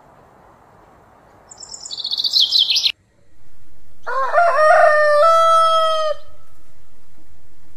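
High, rapid bird chirping that grows louder and cuts off suddenly about three seconds in, then a rooster crows once, one long call lasting about two seconds.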